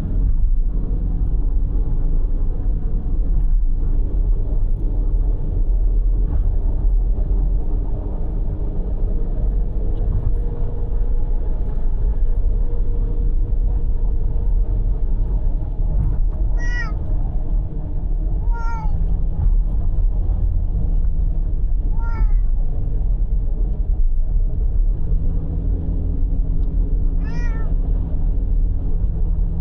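Steady car road and engine noise while driving. A cat meows four times in the second half, in short separate calls.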